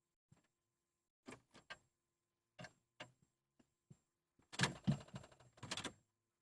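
1996 Dodge Intrepid's starter solenoid clicking as the key is turned, while the engine will not crank or start. It gives single sharp clicks about a second apart, then a burst of rapid clicking about four and a half seconds in.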